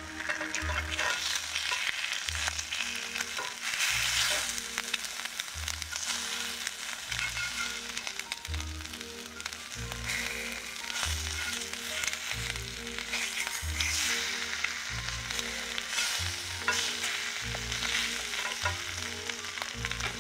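Eggs and sliced ham sizzling steadily in a cast-iron skillet, with a slotted metal turner scraping the pan now and then. Background music with a repeating low bass line plays underneath.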